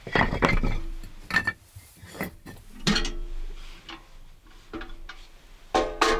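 Cookware and utensils clinking and knocking as they are handled, a series of separate clinks, some with a brief metallic ring.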